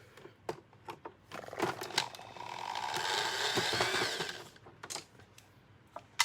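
A few handling clicks, then a small motor whirring for about two seconds in the middle, swelling up and dying away.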